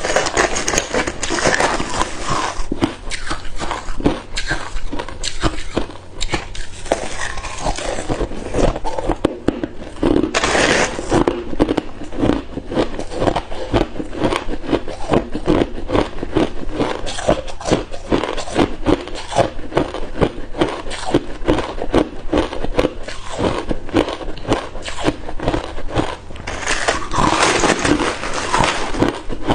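Hard ice cubes being bitten and chewed: a fast, continuous run of crunches and cracks. Louder bursts of crunching come about ten seconds in and again near the end.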